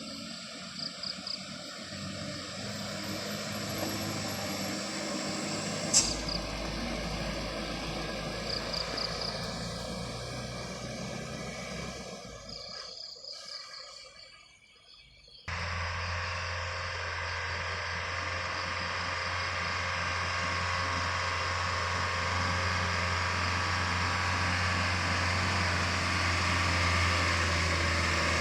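Heavy vehicle passing and engine noise. Partway through, the sound cuts abruptly to a steady low engine hum that grows slowly louder.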